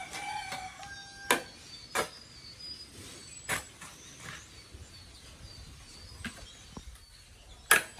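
A rooster crowing once near the start, with faint bird chirps, and several sharp knocks or clinks, the loudest one near the end.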